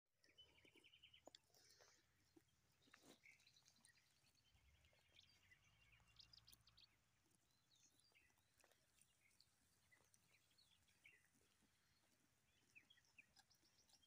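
Faint birdsong: small birds chirping and trilling now and then, with a few soft clicks.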